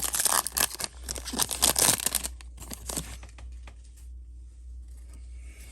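Foil booster-pack wrapper crinkling and tearing open, a dense burst of crackling for the first two seconds, then a few faint rustles. A low steady hum sits underneath throughout.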